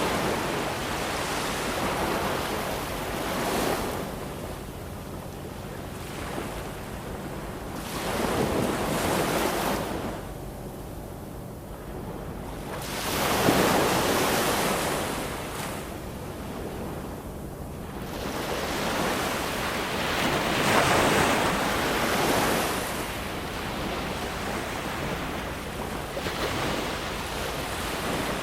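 Ocean waves breaking and washing ashore, a steady hiss of surf that swells and falls back every few seconds, the biggest wave about halfway through.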